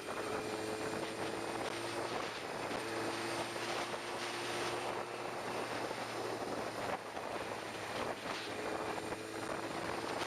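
Motorcycle riding at speed: a steady rush of wind over the microphone, with a faint, even engine hum that comes and goes beneath it.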